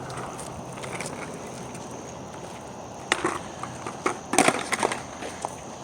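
Skateboard wheels rolling on pavement. About three seconds in the board gives a sharp pop, and a second later it clatters down with several quick knocks: a flip trick attempt.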